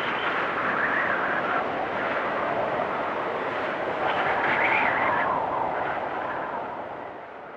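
Storm wind blowing hard with a whistling note that swells in gusts, strongest a little past halfway, then dies down near the end.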